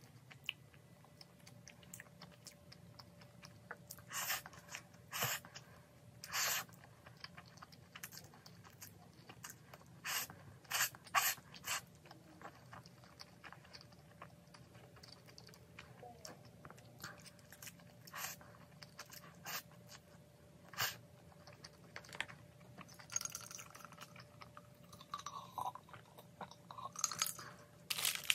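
Close-miked chewing of cheese buldak stir-fried noodles eaten with chopsticks, with several short, loud eating noises mostly in the first half and again near the end.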